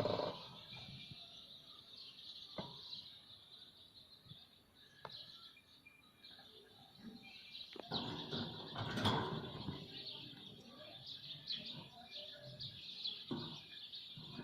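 Ringneck parrot eating, with sharp beak clicks and taps and a busier stretch of tapping and rustling about halfway through, over a steady thin chirping.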